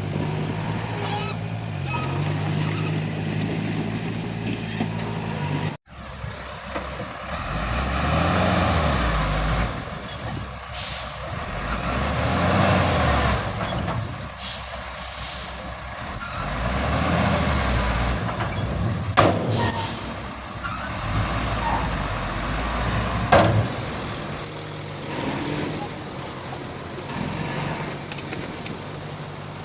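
Komatsu D31P bulldozer's diesel engine running steadily, then, after a brief break, surging up and down again and again as it works under load. Two sharp knocks come about two-thirds of the way through.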